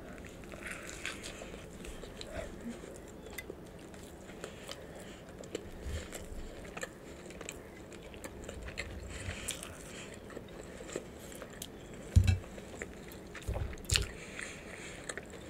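A person chewing a mouthful of cheeseburger, with faint wet mouth sounds and small clicks. A few soft low thumps come near the end.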